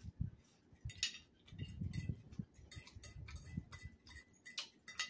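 Close chewing of a mouthful of salad, with many sharp, irregular mouth clicks and a metal fork clinking against a plate.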